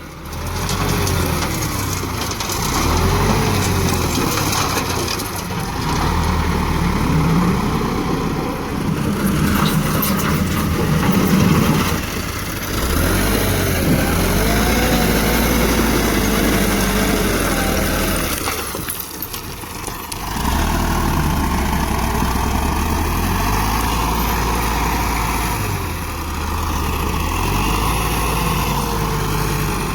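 Massey Ferguson tractor diesel engines working front loaders, repeatedly revving up and dropping back as the loaders dig and lift.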